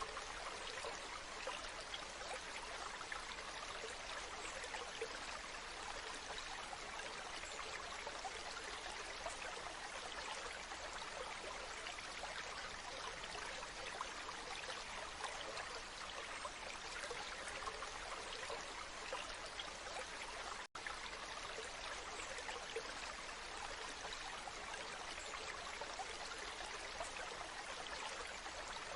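Waterfall water rushing and splashing in a steady, even hiss, with a split-second break about two-thirds of the way through.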